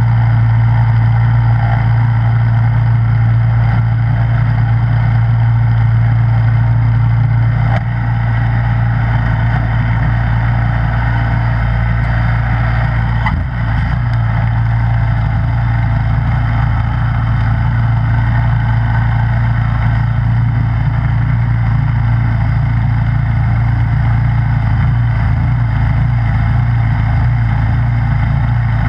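Snowblower engine running steadily at a constant speed, a deep even hum with no change in pitch; the level dips briefly twice, about 8 and 13 seconds in.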